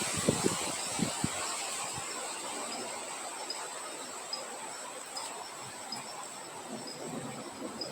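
Crickets or similar night insects trilling, a steady high drone with a short chirp repeating about once a second, over an even hiss of wind. There are a few low buffets in the first second or so.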